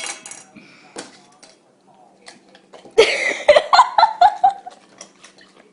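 A person's voice: a loud run of short bursts falling in pitch, starting about three seconds in, after a sudden noisy start and a click.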